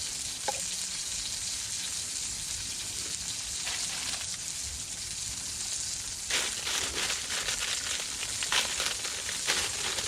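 Burger sizzling as it fries in a pan over a campfire, a steady hiss that turns into louder spitting and crackling from about six seconds in.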